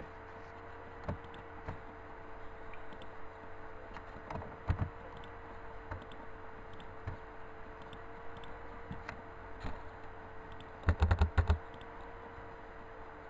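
Keys clicking on a CNC router's control keyboard: scattered single presses, then a quick run of about five loud clicks about eleven seconds in. A steady electrical hum runs underneath.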